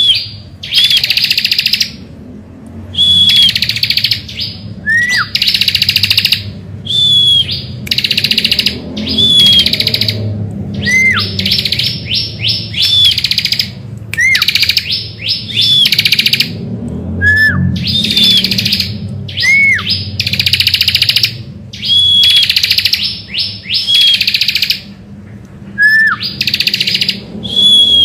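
Bar-winged prinia (ciblek) singing loudly: repeated bursts of fast, buzzy trilling, each about a second long, alternating with single clear whistled notes that drop in pitch.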